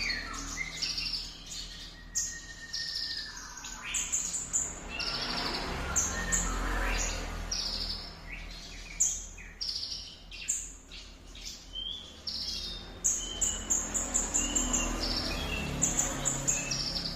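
Small songbird singing a varied song of high chirps, whistles and trills, breaking into fast runs of short notes from about 13 seconds in.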